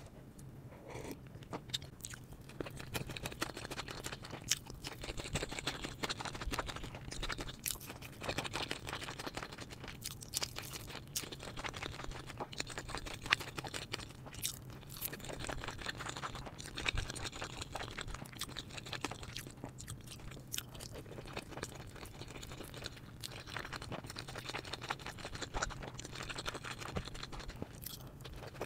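Close-miked chewing and crunching of food, with irregular bites and crackles throughout.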